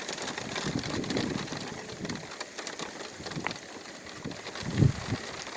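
Steady hiss of rain falling during a thunderstorm, with a few low rumbles and a short low thump about five seconds in.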